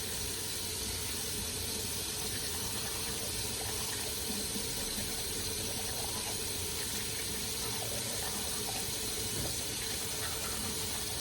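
Water running steadily from a tap or shower, a constant rushing noise.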